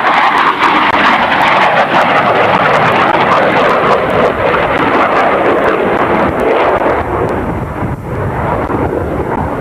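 A fixed-wing aircraft flying past with a loud, steady engine roar that eases a little near the end.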